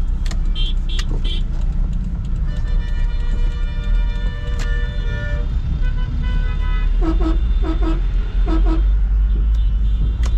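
Steady low rumble of a Toyota Sprinter AE110 on the move, with vehicle horns in the traffic around: one long horn blast a few seconds in, then a run of short beeps in pairs near the end.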